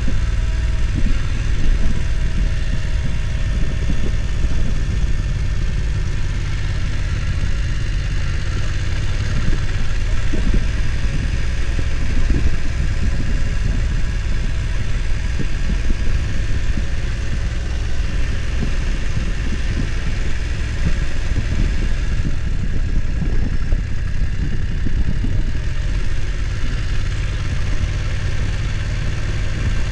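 BMW F900 XR motorcycle's parallel-twin engine running steadily at low revs.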